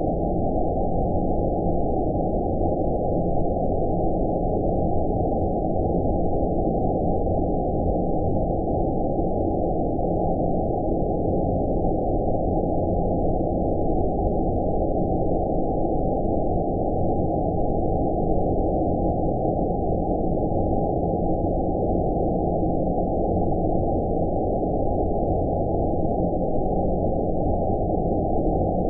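Synthetic 'space noise' sleep sound: a steady, deep, muffled hiss that holds everything low and nothing high, constant in level with no changes or events.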